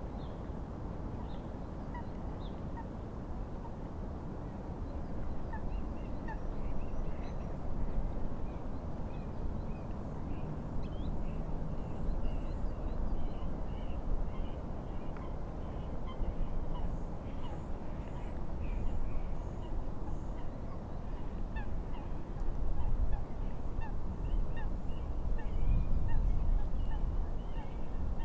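Many short bird calls, repeated throughout, over a constant low rumble that grows slightly louder towards the end.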